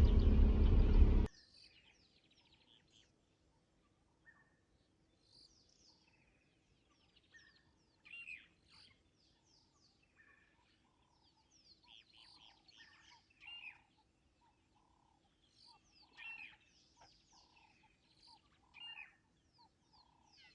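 Loud running noise of a safari vehicle that cuts off abruptly about a second in, followed by quiet bush birdsong: scattered chirps and short whistled phrases, with a few louder calls every few seconds.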